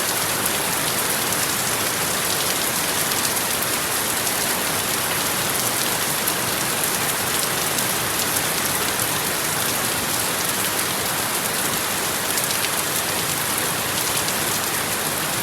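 Steady rain falling: an even hiss with many small drop ticks, constant in strength throughout.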